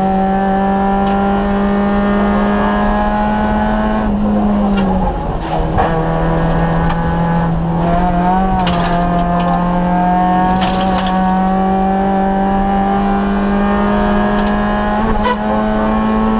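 Citroën Saxo VTS rally car's four-cylinder engine, heard from inside the cabin, running hard under load. Its pitch climbs slowly, drops about four to five seconds in, then climbs steadily again. A few sharp clicks and rattles come around the middle.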